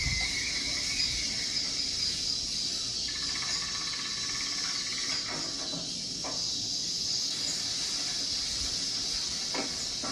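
Steady high-pitched hiss with a few faint knocks, and no speech.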